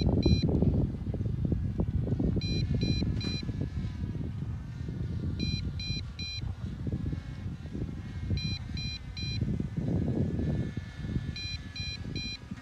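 MJX Bugs 5W drone's low-battery warning beeping: triples of short, high beeps repeating about every three seconds, five times, the sign that the battery has dropped to its first low-voltage level. Under it runs a steady low rumble.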